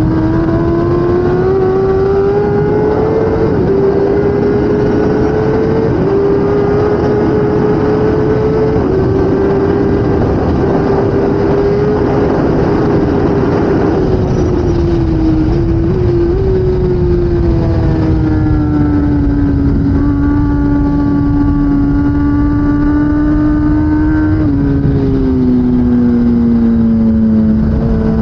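2016 Kawasaki ZX10R's inline-four engine at racing revs. The pitch climbs and breaks back in steps as it shifts up, falls in stages as it slows and shifts down about halfway through, holds steady for a while, then drops again near the end, over a steady rush of wind noise.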